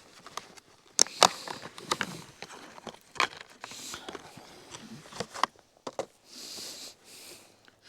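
Irregular clicks and knocks of hard plastic parts being handled, with a few short rustles, as the Oregon PowerSharp sharpener is opened up to show its sharpening stone. The loudest knocks come about a second in.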